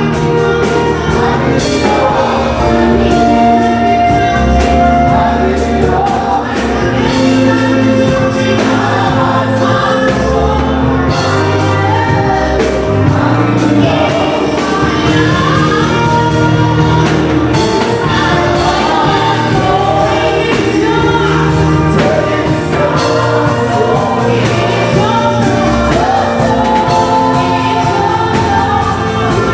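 Gospel worship music: a choir singing over a band with a steady bass line.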